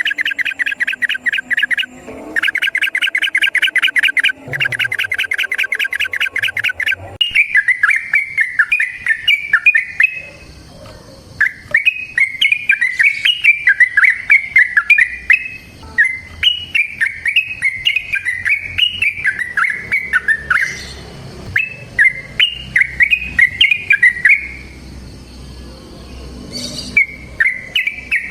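Yellow-vented bulbul (trucukan) singing. It opens with three fast runs of rapidly repeated notes, then gives a string of bubbling, warbled phrases a few seconds each with short pauses between.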